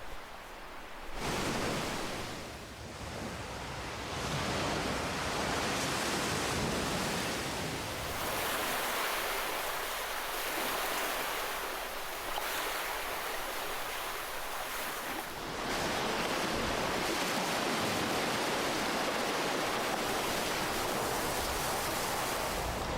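Ocean waves breaking and washing on the shore in a continuous rushing hiss, surging louder about a second in, again around 8 seconds and once more around 15 seconds.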